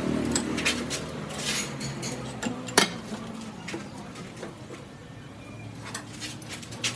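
Scattered metallic clinks and taps, like tools and metal parts being handled on a workbench, with one sharper knock a little under three seconds in.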